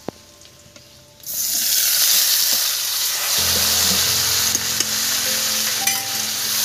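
Cooled potatoes tipped into a pan of hot oil and ghee with cumin seeds, sizzling loudly, starting about a second in and going on steadily. A low steady hum joins about halfway through.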